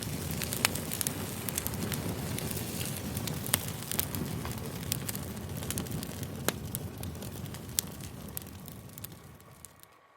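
Campfire crackling, with frequent sharp pops over a steady low rush of burning. It fades out near the end.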